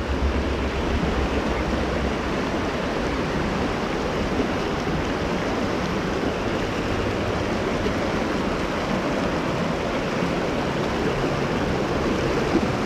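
Rushing mountain river: a steady, even wash of flowing water.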